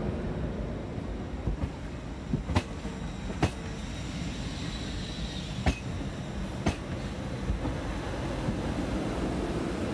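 TransPennine Express multiple-unit train running past on the platform road: a steady rail rumble with a few sharp clicks as the wheels cross rail joints, and a faint high wheel squeal about halfway through.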